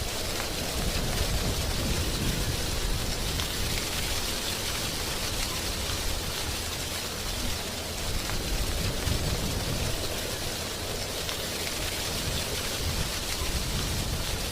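Wind blowing through a tree's drying leaves: a steady rustling hiss with a low rumble of wind that rises and falls.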